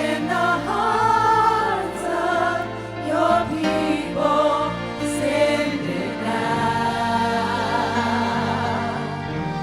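Gospel worship music: a choir or congregation singing sustained wordless lines over steady chords from a keyboard or organ.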